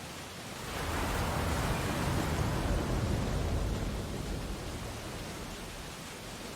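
Ocean waves washing onto a beach: a wave breaks and rushes up just before a second in, swelling for a few seconds and then easing back to the steady hiss of surf.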